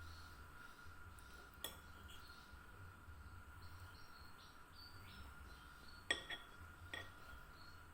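Three light clinks of kitchenware being handled, the loudest about six seconds in, over a faint steady hum.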